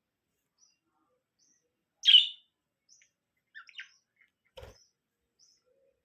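Lovebird chirping: faint high chirps about once a second, one loud harsh call about two seconds in and a couple of shorter calls after it. A brief soft knock comes just past the middle.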